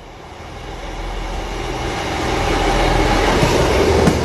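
Train approaching, its rumble and rushing noise growing steadily louder.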